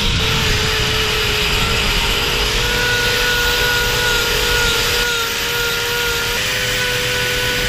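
Angle grinder running steadily and grinding cow hoof horn: a high whine over a rasping grind, its pitch sagging and shifting slightly with load.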